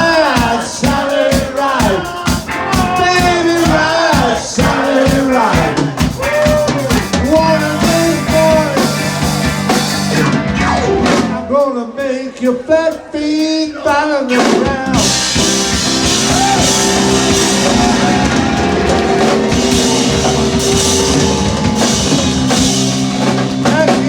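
Live band playing a soul-rock song with drum kit: busy instrumental playing, a short break with a few scattered drum hits about eleven seconds in, then a long held closing chord over cymbal wash.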